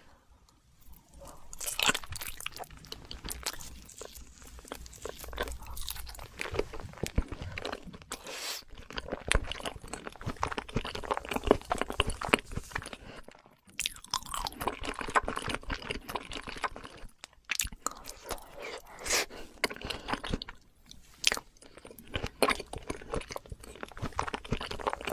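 A person chewing crunchy food close to the microphone: dense, irregular crunching broken by a few short pauses.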